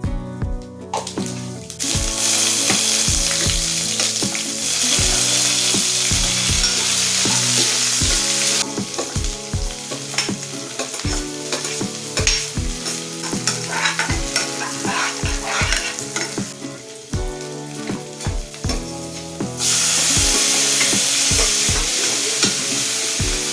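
Vegetables for a sabji frying and sizzling loudly in hot oil in a pan, with spoon stirring and scraping. The sizzle drops back about nine seconds in, leaving scattered scrapes and clinks, and comes back loud near the end. Soft background music with a steady beat plays under it.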